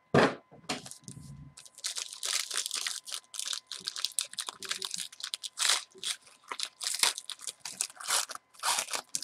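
Plastic wrapping of a trading-card pack being torn open and crinkled by hand, a quick irregular run of sharp crackles.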